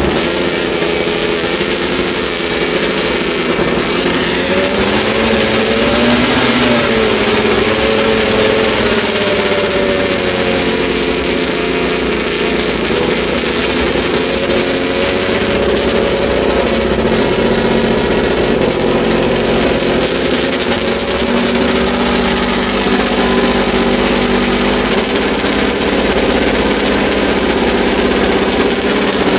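Honda RA272's 1.5-litre V12 Formula One engine running at a steady, loud fast idle, with a brief rise in revs about six to seven seconds in.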